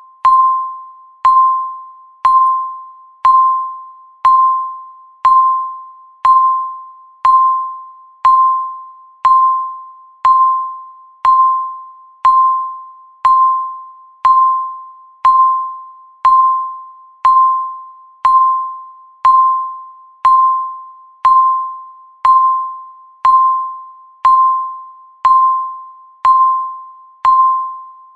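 Countdown timer's electronic tick: a single pitched, bell-like ding once a second, each struck sharply and fading away before the next, marking off the seconds.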